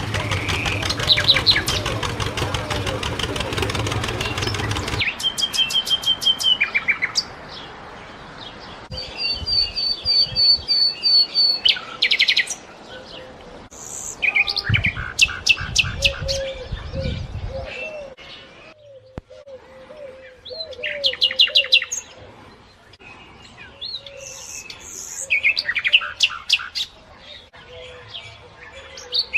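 Small birds chirping and calling in quick repeated trills and single chirps. A steady noise runs underneath for the first five seconds and cuts off suddenly.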